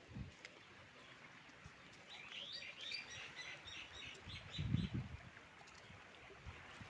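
A bird chirping: a quick run of short, high notes lasting about two seconds. A low thump follows about five seconds in.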